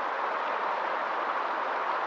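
River water flowing, a steady even rush without distinct splashes.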